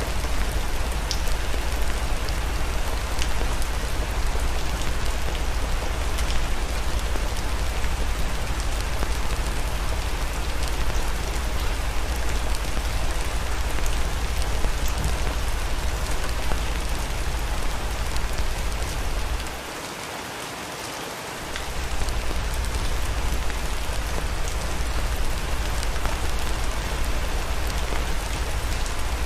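Steady rain, an even hiss with a deep low rumble underneath. The rumble drops out for about two seconds roughly two-thirds of the way in, then returns.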